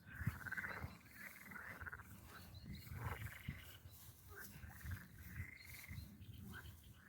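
Frogs croaking: repeated, overlapping buzzy calls, with a low rumbling underneath.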